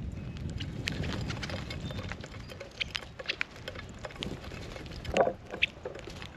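Small birds at a feeder giving short high chirps, amid scattered sharp taps and clicks, with a louder tap about five seconds in, over a low rumble of wind.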